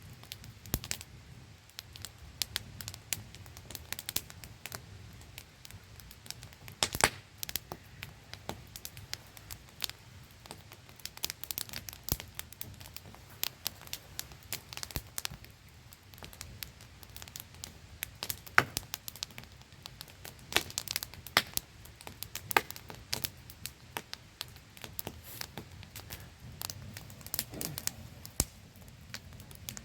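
Wood campfire crackling with irregular sharp pops and snaps, a few louder than the rest, over a steady low rush of a small waterfall.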